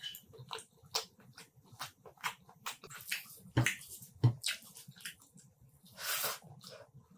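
Close-miked mouth sounds of eating chicken curry with rice: wet chewing, lip smacks and clicks in an irregular run. There are two louder thuds a little past halfway and a longer wet smack about six seconds in.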